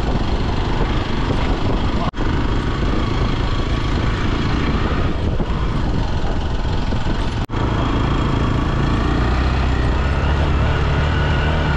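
Motorcycle engine running while riding, under a heavy rush of wind noise on the microphone; the engine's low note grows stronger in the last few seconds. The sound drops out for an instant twice.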